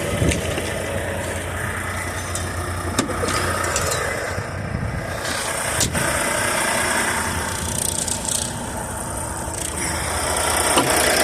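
Semi-truck diesel engine idling steadily, with a couple of sharp knocks about three and six seconds in.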